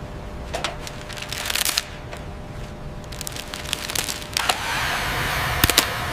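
A brush scrubbing and scraping on a corroded metal part, with scattered sharp clicks, over a steady low rumble; the scrubbing noise grows denser toward the end.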